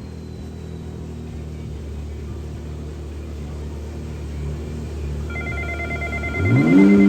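BMW M4 GT3's twin-turbo inline-six idling steadily during engine warm-up. Near the end a pulsing high electronic beep comes on, and the engine is then revved up quickly and held steady at higher rpm.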